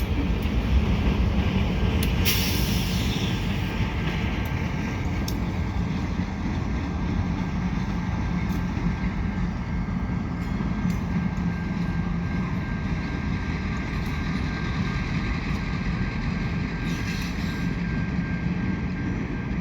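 CN EMD GP38-2 and GP40-2W diesel locomotives running as they shove a caboose along the main line: a steady low engine drone with the rumble of the train rolling by. A brief hiss about two seconds in.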